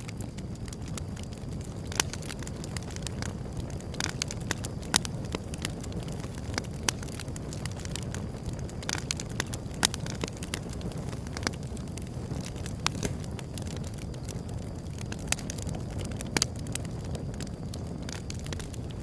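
Wood fire burning with a steady low rumble and irregular sharp crackles and pops, a few of them louder snaps.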